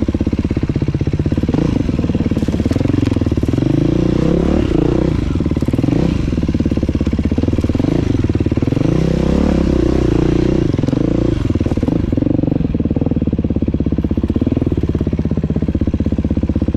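Dirt bike engine running under the rider, its revs rising and falling again and again with the throttle.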